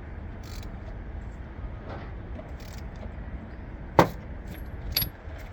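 Two sharp knocks about a second apart, the first louder and the second with a brief high ring, over a steady low rumble.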